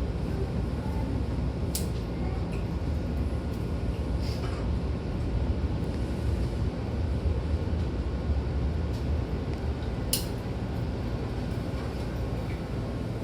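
Steady low rumble inside a Hankyu train car at the Osaka-Umeda terminus, with a sharp short click about two seconds in and another about ten seconds in.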